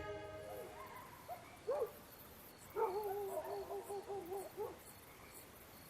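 Faint wavering, whimper-like cries from a cartoon soundtrack: a few short pitched calls, then one longer wobbling cry about halfway through. The tail of the music dies away at the start.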